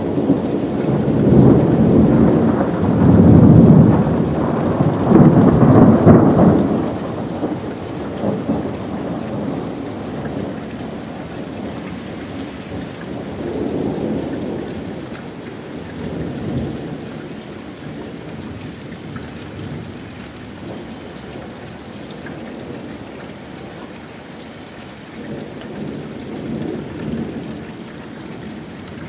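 Thunder from a nearby lightning strike in a rainstorm: a long, loud rolling rumble that peaks over the first six seconds, then dies away in lower rumbles over steady rain.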